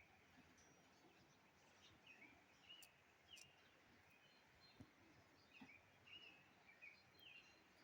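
Faint bird chirps: short, hooked calls, repeated irregularly about once a second, over a quiet outdoor background.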